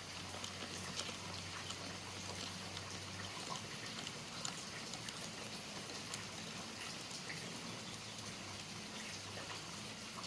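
Light, irregular patter of water drops, like rain falling on a surface, with a faint steady low hum underneath that changes about three seconds in.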